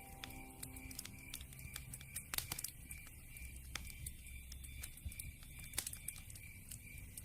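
Campfire crackling: irregular small pops and snaps, with a few louder cracks about two and a half seconds and six seconds in.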